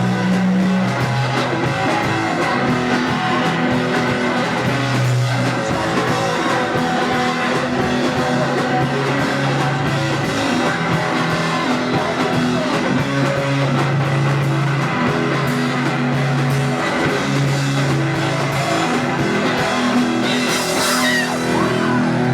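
Live punk rock band playing loud: electric guitar, bass and drums, with the bass line shifting between held low notes every second or two.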